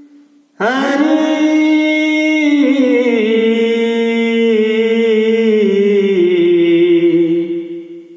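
A man singing a devotional chant unaccompanied. He holds one long note that starts about half a second in, slides down in pitch in small steps, and fades out near the end.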